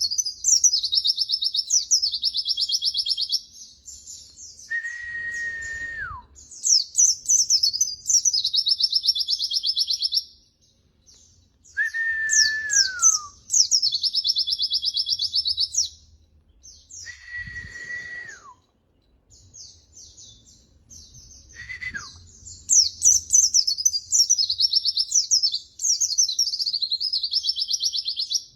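Pleci (white-eye) birdsong: bursts of high, fast chirps and trills in repeated phrases with short pauses between them. A lower, steady whistle comes in four times, each held for about a second or more before sliding down in pitch.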